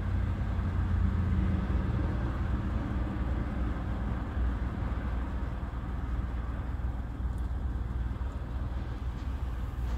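Car engine idling while stopped, a steady low rumble heard from inside the cabin.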